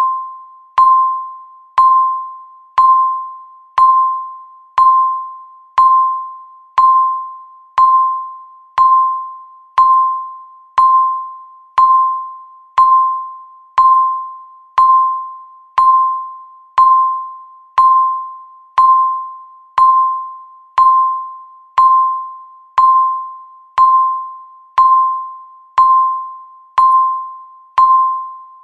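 Electronic countdown-timer beep: a single pitched tone sounding once a second, each with a sharp start and a fading tail, marking the seconds as the timer counts down.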